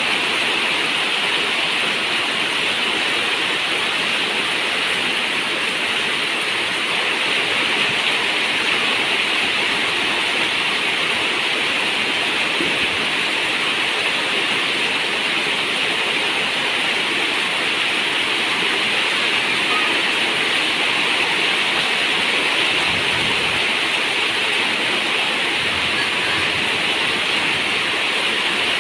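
Rain falling steadily on a zinc roof: an even, unbroken rush of water sound.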